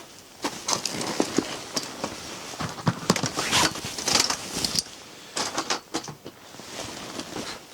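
Irregular crunching and rustling with light knocks from a person moving and handling things close by.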